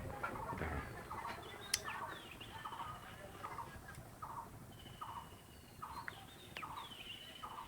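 Domestic fowl calling in a steady run of short, repeated notes, about two a second, with a few thin whistled bird calls above them.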